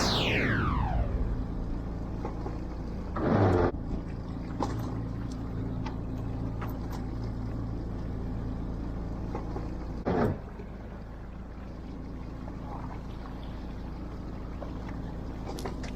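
Fishing boat's engine running steadily, a low even hum, with a quick falling whine at the very start and short noisy bursts about three seconds in and again near ten seconds.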